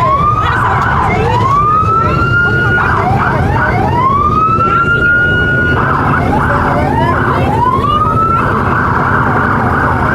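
Police car siren switching between a rising wail that climbs and holds and stretches of fast warbling yelp, several cycles in turn, over a steady low rumble.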